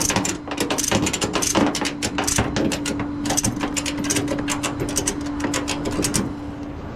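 Ratchet tie-down strap being cranked tight, its pawl clicking rapidly in quick irregular runs, to secure a wheel of a towed truck. A steady low hum runs underneath and cuts off about six seconds in.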